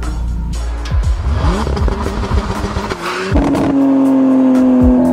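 Sports car engines revving and accelerating, with quick rises and falls in pitch, over background music.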